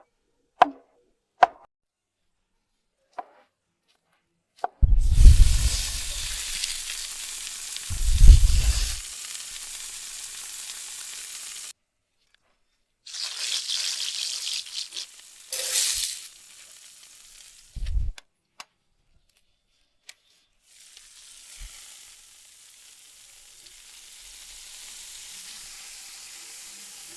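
Food sizzling and frying in a pan over a campfire, in several short stretches that start and stop abruptly, with a few sharp clicks near the start and heavy low thumps about five and eight seconds in.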